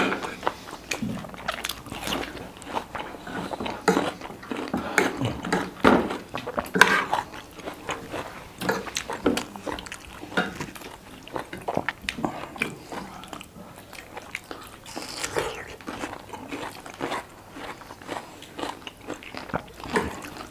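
Close-up eating sounds: a person biting and chewing food, with many short, irregular crunchy clicks.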